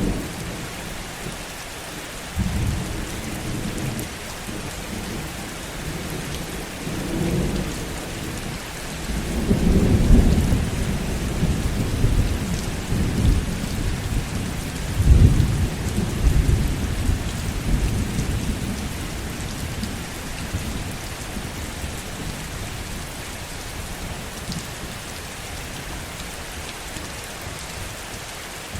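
Steady heavy rain with a long peal of thunder rolling in a couple of seconds in, building to its loudest in the middle, then dying away over the last third while the rain continues.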